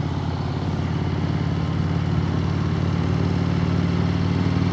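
Harley-Davidson V-twin motorcycle engine running steadily while riding, getting a little louder toward the end.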